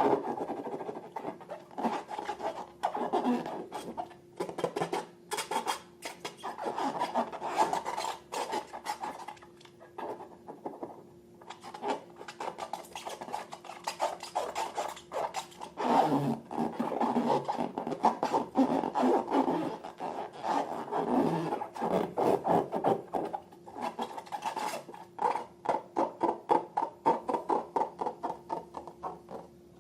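Slime being squeezed, stretched and worked by hand, giving off dense, irregular sticky clicks, crackles and squelches that come in waves.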